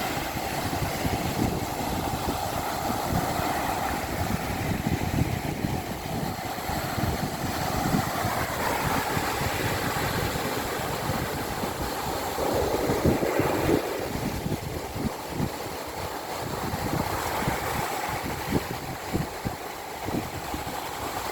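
Stormy sea waves surging and breaking, with wind buffeting the microphone; the loudest surge comes a little past the middle.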